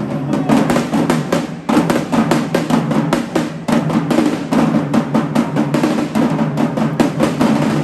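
Marching band drumline playing a fast cadence: rapid snare strokes over bass drums, with steady low tones beneath, breaking off briefly twice and picking straight back up.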